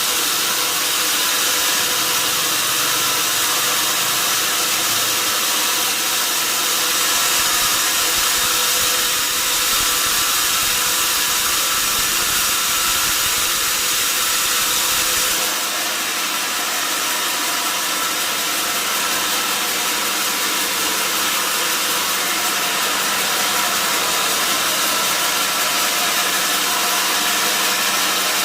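Sawmill saw machinery running steadily, a dense mechanical hiss with several steady tones through it. About halfway through, the low rumble drops away and the hiss turns brighter.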